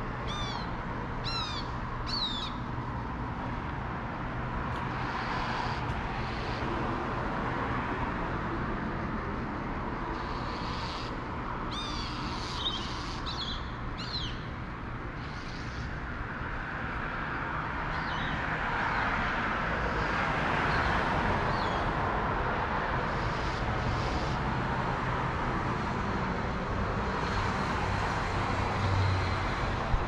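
A bird gives short, sharp, falling calls: three near the start and a quicker cluster about eleven to fourteen seconds in. Under them runs a steady background rush of noise that grows louder around twenty seconds in.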